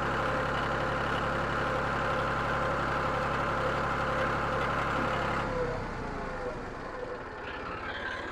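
John Deere 5303 tractor's diesel engine running steadily, then shut off about five and a half seconds in, the sound dropping away quickly.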